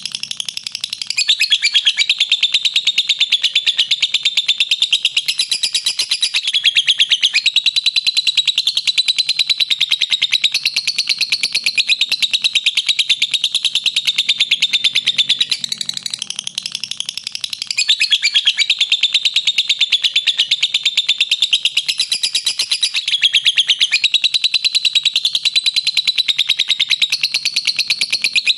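Lovebird giving its long, unbroken 'ngekek' chatter: a fast, high-pitched rattling string of notes, many per second. It dips briefly about a second in and again around the middle before running on.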